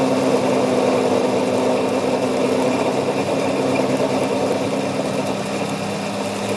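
A machine running steadily with a constant, even hum and no change in speed.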